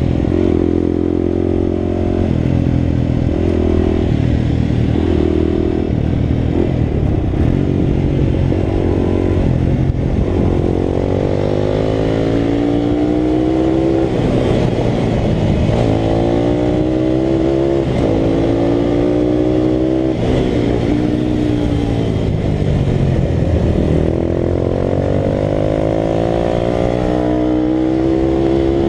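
Italika RT200's single-cylinder four-stroke engine running hard at race pace. The pitch climbs and falls again and again as it revs up and shifts or eases off for corners.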